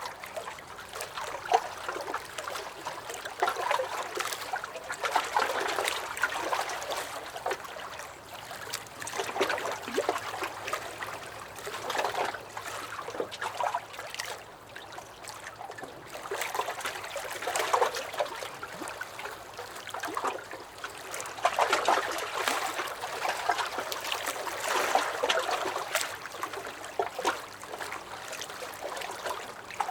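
Small lake waves lapping and sloshing against a dock, in irregular swells every few seconds with small splashes.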